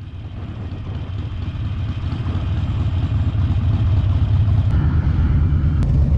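Motorcycle engine running with a steady low rumble, growing louder over the first few seconds and then holding level.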